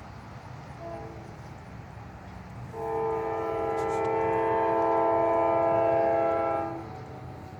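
Locomotive air horn: a brief short toot, then one long blast of about four seconds, several notes sounding together as a chord, over the low rumble of the passing train.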